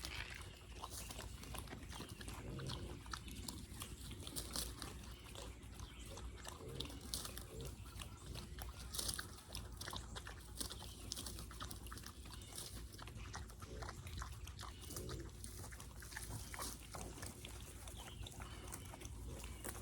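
A pig grunting softly now and then, a few short grunts among scattered crackles.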